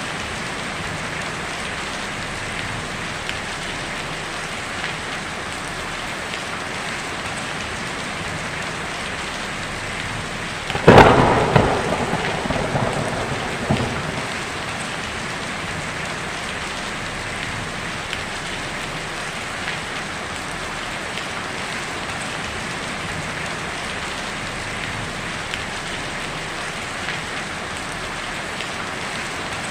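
Heavy rain drumming steadily on a tin roof. About eleven seconds in, a single sharp thunderclap cracks and rumbles away over a few seconds.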